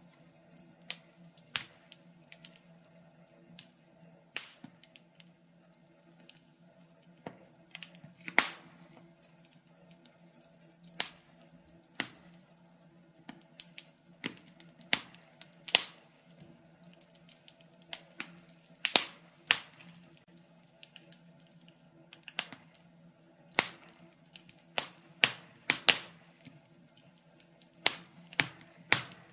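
Fire burning in a fireplace, crackling with irregular sharp pops and snaps, some much louder than others, over a faint steady low hum.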